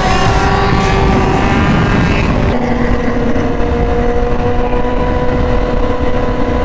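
Sportbike engine running under way at steady speed over a dense rush of noise. The engine note steps down in pitch about two and a half seconds in.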